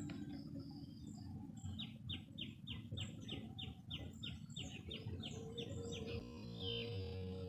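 A bird calling a quick run of about fourteen short, high notes, each falling in pitch, a little over three a second. Synthesizer background music starts near the end.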